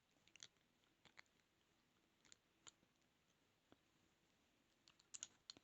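Near silence with a few faint, scattered clicks of metal lock picks working in a small lock's keyway.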